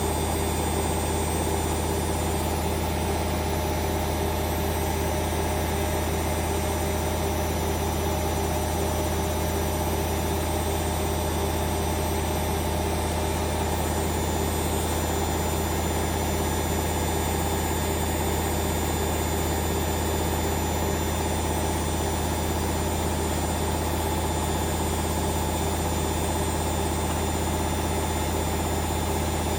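Hoover Vision Dynamic washing machine on a spin cycle, drum and motor running at a steady speed with an even, unchanging low hum.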